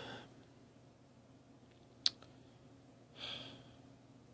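A single sharp click about two seconds in, then a soft sigh from a person about a second later.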